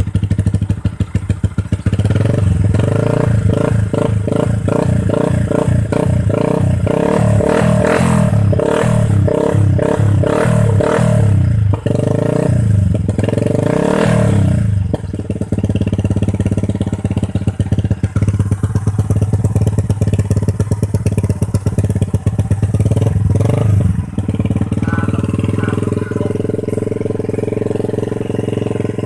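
Yamaha Vixion NVL single-cylinder motorcycle engine running through an underbelly racing exhaust with a dense bass character, revved up and down repeatedly for about the first half, then settling to idle, with one more short rev near the end.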